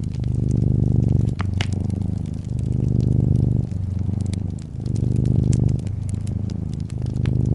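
A domestic cat purring close up, the purr rising and falling with each breath in and out about every second or so, with wood fire crackles and pops scattered over it, two sharper pops about a second and a half in.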